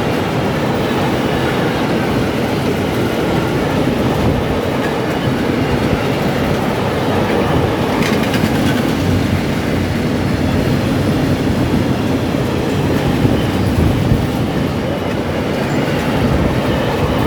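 Freight train of loaded car-carrier wagons rolling past with a steady rumble of wheels on rail, wheels clicking over rail joints; one sharper click about halfway through.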